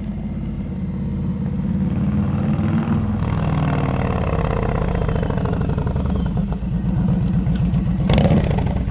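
Indian Challenger's liquid-cooled PowerPlus V-twin running loud through a TAB Performance 2-into-1 exhaust with the catalytic converter deleted, a steady pulsing rumble that grows louder about three seconds in and again near the end as the bike comes up close.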